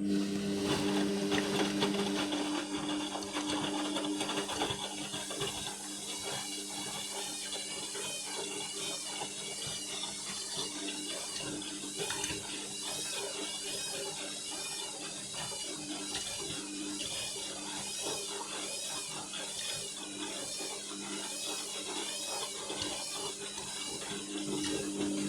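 Indesit MTWC71252WUK washing machine turning its drum during the final rinse and distribution stage. The motor gives a steady hum, and a swishing swells and fades about once a second as the drum turns.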